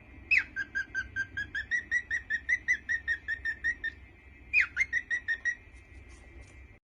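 A bird calling a rapid series of short whistled notes, each beginning with a downward slide, about five a second for some three and a half seconds, then a shorter burst of the same notes about four and a half seconds in.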